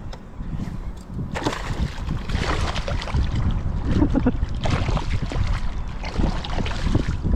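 Water sloshing and splashing in short repeated bursts, over a steady low rumble.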